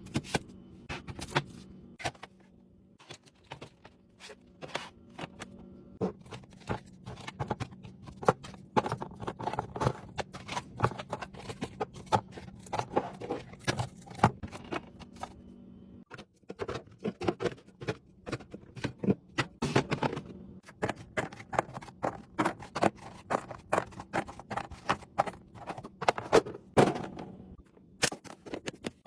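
Food containers and packaging being handled and set into a fridge: a quick, irregular run of clicks, knocks and light clatter over a faint steady low hum, breaking off briefly about halfway through.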